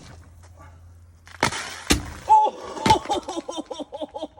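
A sealed Coke bottle loaded with Mentos bursts off as a rocket about a second and a half in: a sudden spraying hiss with a sharp crack. It is followed by a person laughing in quick repeated bursts, about four a second.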